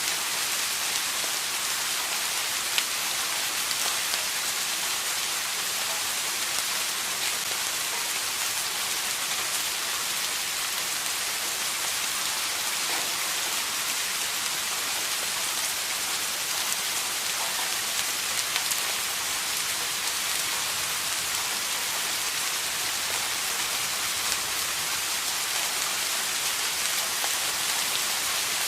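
Steady rain falling, a dense even hiss with scattered individual drops ticking.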